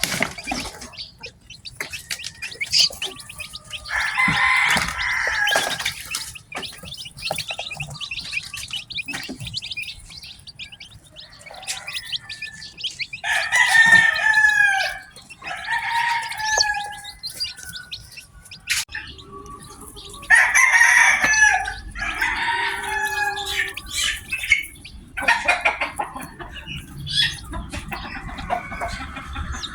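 Chickens calling: several loud drawn-out calls a few seconds in, around the middle and again past two-thirds, with short high chirps between them.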